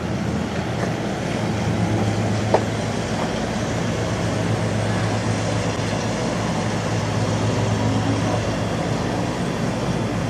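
Steady running noise of a moving vehicle: a constant low engine hum under an even rushing noise, with one sharp click about two and a half seconds in.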